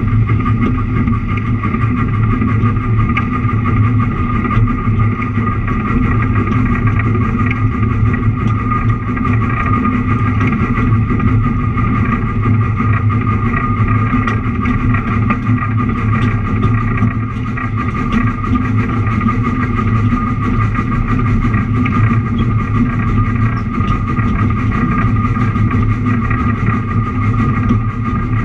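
Narrow-gauge train running steadily along the track, its engine giving a constant drone that dips slightly about two-thirds of the way through.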